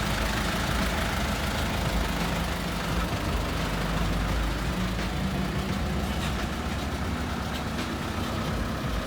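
Tow truck's engine running steadily at low speed.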